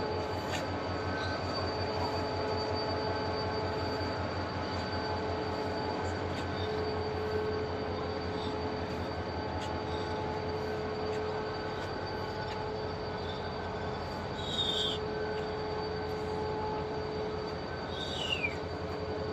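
King Farouk's restored royal train coaches rolling slowly along the platform track, a steady rumble of wheels with a continuous hum. Two short, high, falling wheel squeals come near the end.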